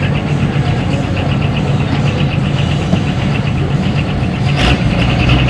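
Pulling tractor's engine idling steadily at the sled, with a swell in its low rumble near the end.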